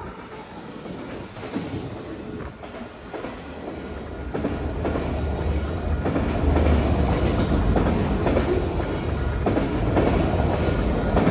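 Norfolk Southern freight train rolling past, a low rumble with wheels clacking over the rails, growing louder about four seconds in.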